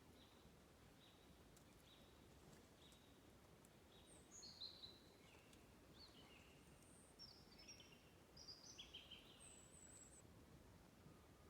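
Faint birdsong over a quiet outdoor hiss: a string of evenly spaced short chirps, then a quicker, more varied run of high notes.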